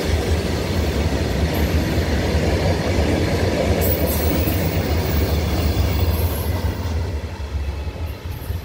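Goods train wagons rolling past on the rails, a steady heavy rumble of wheels and running gear that begins to fade near the end.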